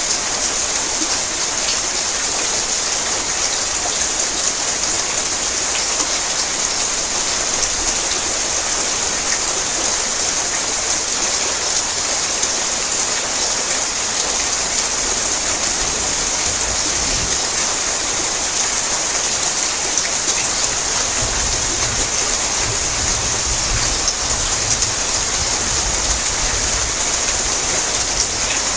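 Heavy rain drumming steadily on a tin roof, a dense hiss of countless drops. A low rumble comes in for several seconds about two-thirds of the way through.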